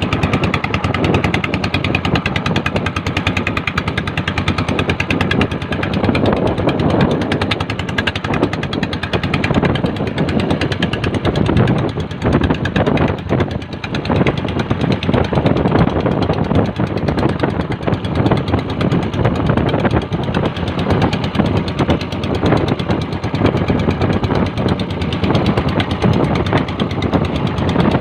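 Engine of a motorized bangka outrigger boat running steadily, a loud, rapid, even pulsing.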